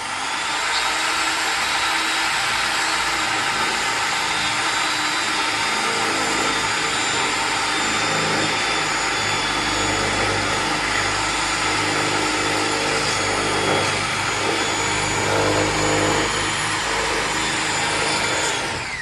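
A high-speed electric motor spins up quickly, runs steadily for about eighteen seconds with a loud, hissing whine, then winds down as it is switched off.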